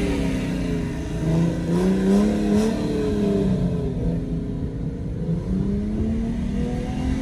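Car engine running, its revs slowly rising and falling several times over a steady low rumble, heard from inside a moving car.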